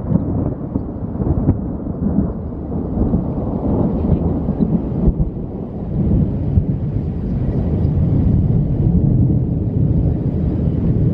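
Thunder from a supercell thunderstorm: a long, continuous low rumble with irregular cracks, growing louder a little past halfway.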